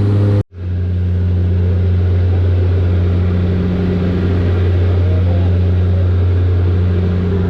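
Steady, loud engine drone with a low hum and a second line an octave above it, cut by a sudden brief dropout about half a second in.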